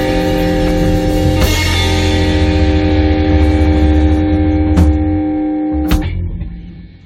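Blues band holding its final chord: electric guitar sustaining over rumbling bass and drums, with drum or cymbal hits about a second and a half in and again near the end. The chord then dies away and cuts off.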